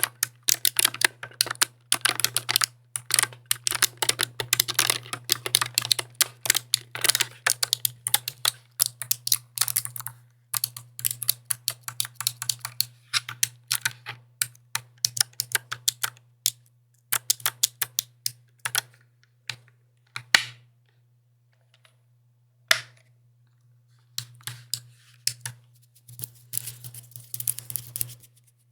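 Mechanical keyboard being typed on in quick, dense runs of key clicks. The typing thins out after about sixteen seconds and pauses for a few seconds, broken by a single click, then picks up again near the end.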